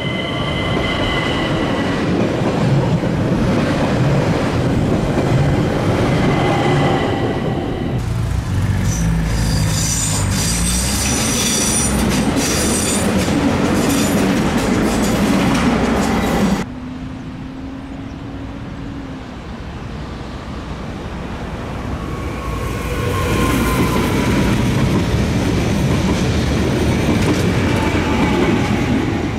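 Electric multiple-unit trains running through a station in separate takes: an ÖBB Talent's wheels rumbling on the rails with a steady whining tone, then a stretch of high wheel squeal and clicking over the rails. After an abrupt drop to a quieter spell, an SOB Stadler FLIRT passes close by with rising rail noise.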